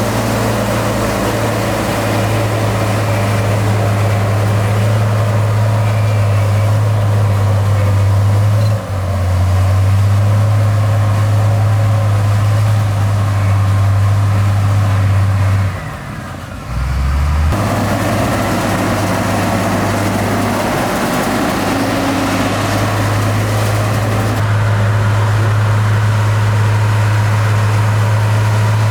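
Heavy construction machinery's diesel engine running steadily with a deep hum. The sound changes abruptly about 9 seconds in, dips briefly around 16 to 17 seconds, and changes again near 24 seconds, as between spliced clips.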